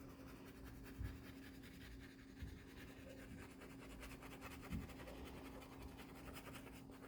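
Faint scratching of a wax crayon stroked back and forth on paper, with a low steady hum underneath.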